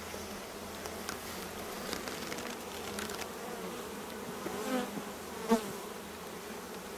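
A colony of honeybees buzzing steadily around an opened hive, a continuous hum of many wings. A brief louder sound stands out about five and a half seconds in.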